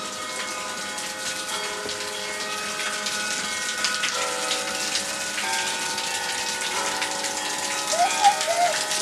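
Waterfall's steady rush of falling water, with slow held chords of music changing every second or two over it. A short warbling sound comes near the end.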